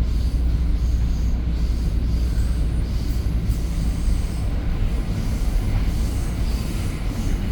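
EXO commuter train in motion, heard from inside the passenger coach: a steady low rumble of the wheels on the rails and the car's running noise.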